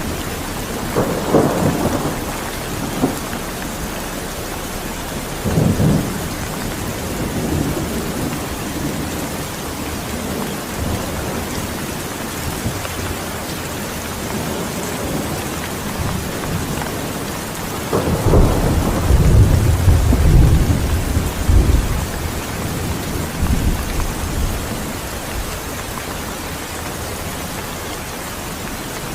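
Steady heavy rain hissing, with rolls of thunder rumbling low over it: short ones about a second in and around six seconds, and a longer, louder roll in the second half.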